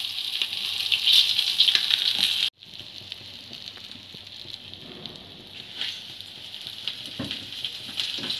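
Flour-coated sea bream frying in a pan of hot oil, sizzling with crackles. The sound cuts out abruptly about two and a half seconds in, and a fainter sizzle then goes on with a few light knocks.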